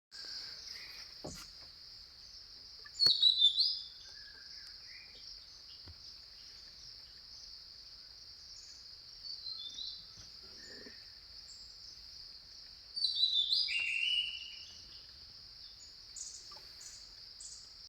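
Jungle ambience: a steady high-pitched insect drone, with bird calls over it. Loud runs of falling-pitch notes come about three seconds in and again around thirteen seconds in, with softer calls in between.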